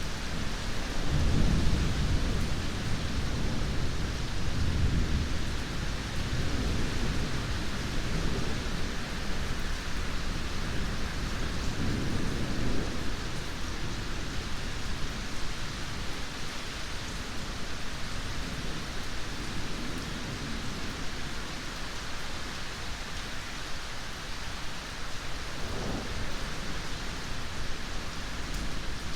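Steady rain with rolling thunder: a long low rumble building about a second in and rolling on for several seconds, another rumble a little before the middle, and a short low rumble near the end.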